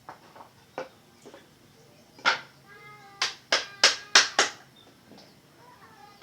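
Sharp knocks: a few light ones, a loud single one about two seconds in, then a quick run of five about a third of a second apart.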